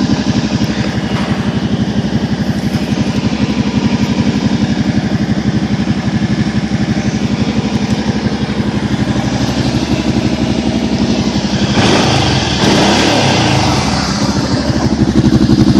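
Kawasaki Prairie 650 ATV's V-twin engine running steadily at idle after a cold start, with even firing pulses. About twelve seconds in it gets louder and rougher, and near the end it picks up in revs.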